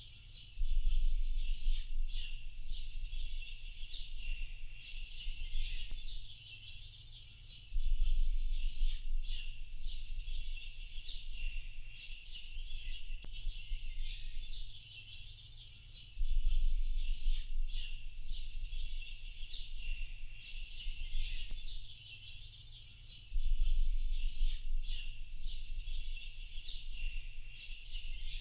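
Dense chorus of small songbirds chirping and twittering without a break, high-pitched and busy. A deep low rumble swells in four times, about every eight seconds, and is the loudest sound each time.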